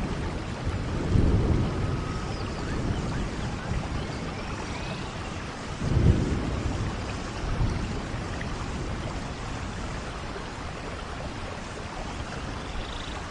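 Steady rain with rolling thunder: low rumbles swell about a second in and again more sharply about six seconds in, then die away under the rain.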